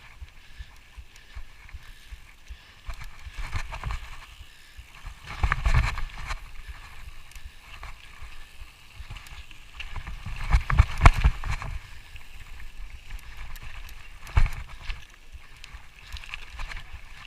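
A hiker moving along a trail: irregular footsteps, scuffs and rustling, with heavier bumps and knocks about five seconds in, around ten to eleven seconds, and once more near the end.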